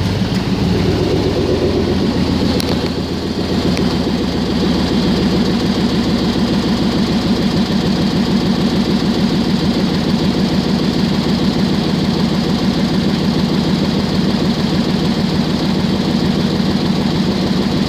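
1997 Chevrolet Silverado pickup's engine idling steadily.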